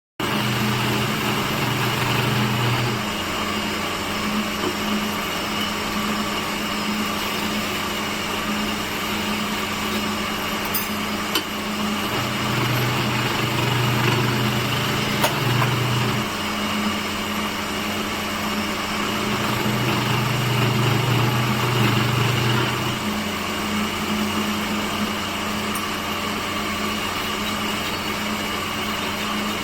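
Electric woodworking machine running steadily, a constant hum with a lower droning tone that swells in three times for a few seconds each.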